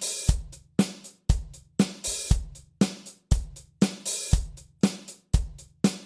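Drum kit playing a basic rock beat at about 120 beats a minute: bass drum and snare alternating on the beats under steady eighth notes on the hi-hat. Once each bar, on the 'and' of four, the hi-hat is opened slightly and rings briefly before it closes again.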